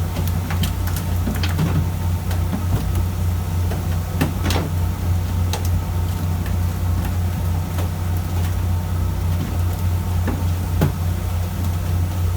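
A fishing boat's engine running with a steady low drone, with a few scattered knocks and clicks on board over it.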